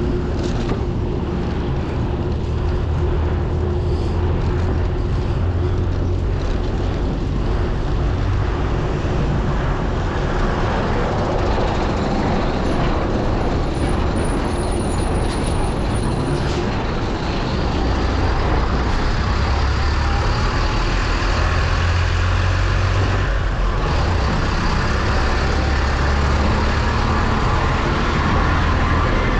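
Steady rushing and rumbling wind noise on the microphone of a camera riding on a moving bicycle, heaviest in the low rumble and unbroken throughout.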